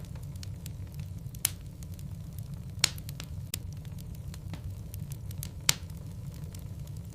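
Wood logs burning in a fireplace, crackling with frequent small snaps and three louder pops spread through, over a steady low rumble.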